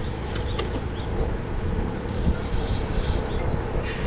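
Wind rushing over the microphone and tyre noise from a mountain bike rolling along at speed, with a steady hum and a few faint ticks about half a second in.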